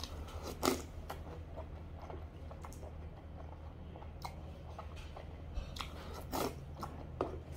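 A person chewing and eating food from a wooden spoon close to the microphone, with a few sharp mouth noises: one just under a second in and two near the end. A steady low hum runs underneath.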